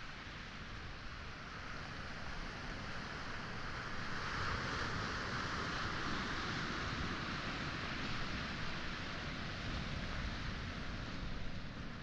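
Sea waves washing onto a pebble and boulder shore at high tide, one swell building a few seconds in and slowly easing off.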